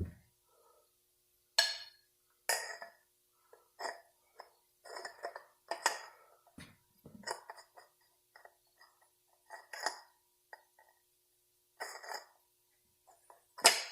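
Metal parts of a 46RE automatic transmission clinking and knocking together as they are handled and fitted: a string of short, irregular clinks with a brief ringing tone, about a dozen, with quiet gaps between.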